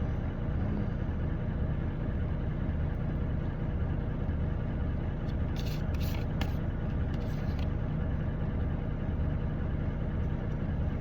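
Semi truck's diesel engine idling, a steady low rumble heard inside the cab. A few faint light clicks come about halfway through.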